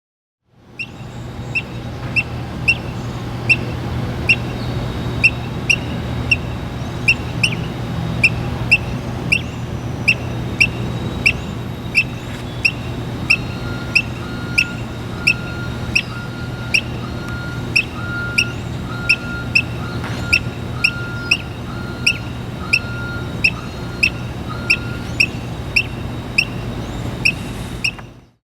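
Squirrel giving a long run of short, sharp, bird-like chirps, about two a second, over a steady low hum.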